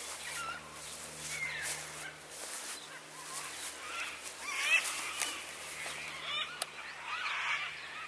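Birds calling repeatedly, short calls that glide up and down in pitch, over a faint steady low hum.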